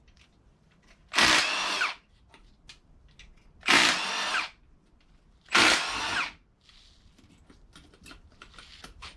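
Cordless power drill/driver with an 8 mm socket running in three short bursts, each under a second and winding down at the end, spinning out the valve cover bolts. Light clicks and rattles of bolts and tools being handled follow near the end.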